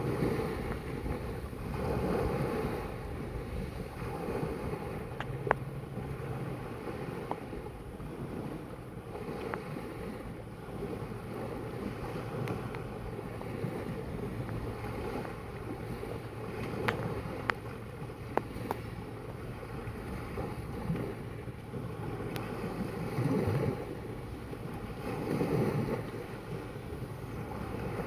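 Sea waves washing and lapping, with wind buffeting the microphone; the wash swells now and then, and a few sharp clicks stand out.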